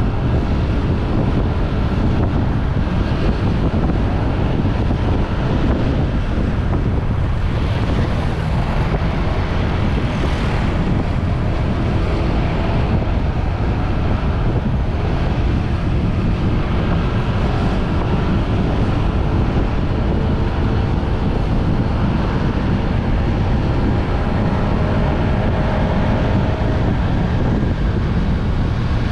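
Steady wind rushing over the microphone of a moving motorbike, with the bike's engine running faintly underneath.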